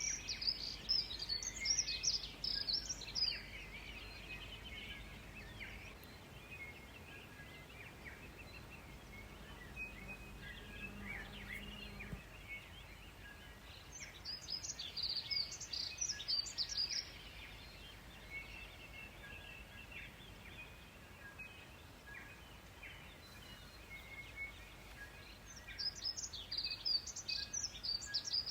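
A songbird singing a rapid, high, warbling phrase of about three seconds, three times about twelve seconds apart, with fainter bird chirps in between.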